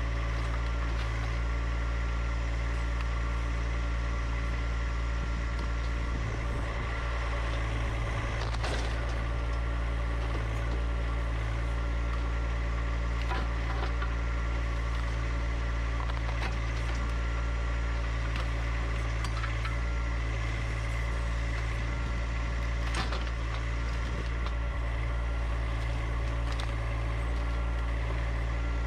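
John Deere 1025R compact tractor's diesel engine running steadily at an even speed, with a few short knocks, about 9 and 23 seconds in.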